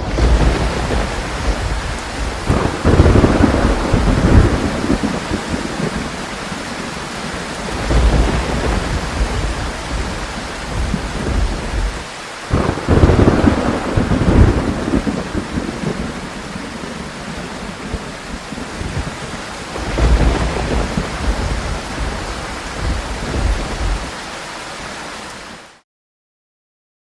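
Thunderstorm: steady heavy rain with rolling thunder that swells into loud rumbles about three seconds in, about thirteen seconds in and about twenty seconds in, then cuts off suddenly near the end.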